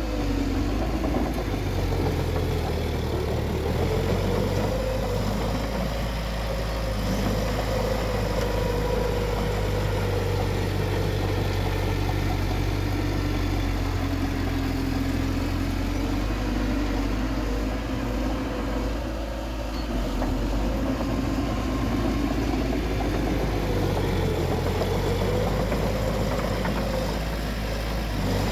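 Bulldozer's diesel engine running steadily under load, its pitch rising and falling slightly as the machine works.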